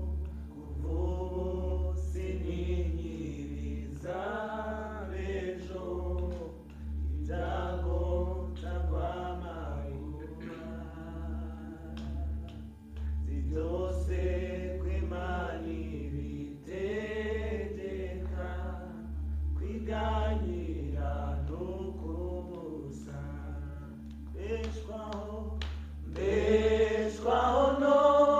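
Worship singing by a group of voices in phrases, growing louder near the end, over a steady low hum.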